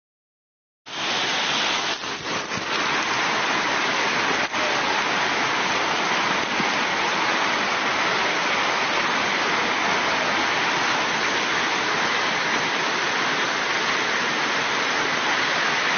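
Steady, dense rushing of water that starts abruptly about a second in and holds even throughout.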